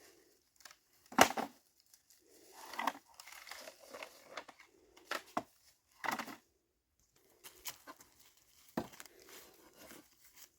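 Irregular crinkling and tearing of packaging, broken by a few sharp knocks, the loudest about a second in.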